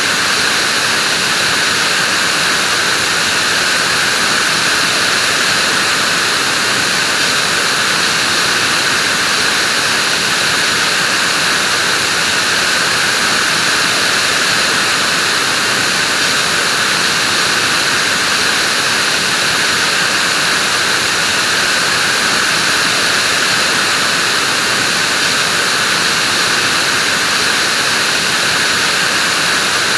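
Vacuum cleaner motor running steadily, a constant high, hissing whoosh with no change in pitch or level.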